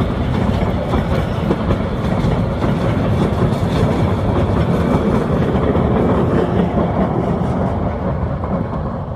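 Mohanagar Express passenger train running along the track: a steady, loud rumble with wheel clatter, easing off slightly near the end.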